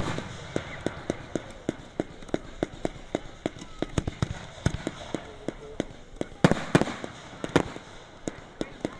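Fireworks going off: a rapid string of sharp pops, about four a second, with louder bangs right at the start and a cluster of three around two-thirds of the way through.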